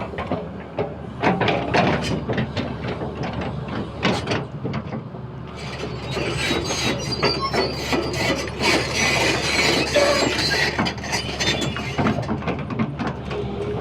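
Excavator at work: a steady low engine hum under many sharp metallic clanks and knocks, with a rougher hiss and rattle from about six to eleven seconds in.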